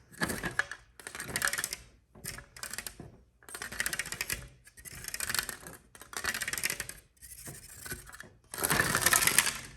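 ASMR tapping and scratching with the fingers on hard objects, in short bursts of rapid clicking and scraping, each about a second long with brief pauses between them. The loudest burst comes near the end.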